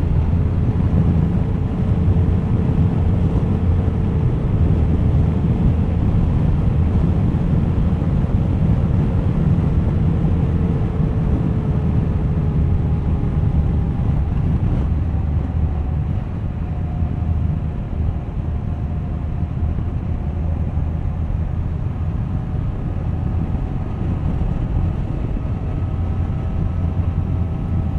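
Suzuki GSX1250FA inline-four motorcycle engine running under way, with a heavy low rumble and wind on the microphone. Its note shifts about halfway through, then sinks slowly.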